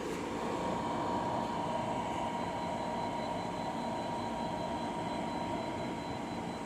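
De'Longhi Pinguino portable air conditioner running on full blast: a steady rush of air from its blower fan with the compressor running, and a faint steady whine.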